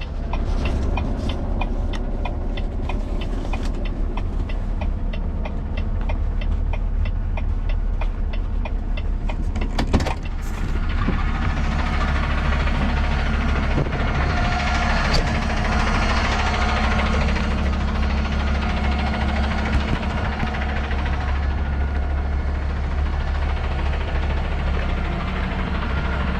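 Semi truck's diesel engine running, heard from inside the cab. Even ticking about three times a second over the first few seconds, a single sharp knock about ten seconds in, and the engine sound grows fuller and rougher after that.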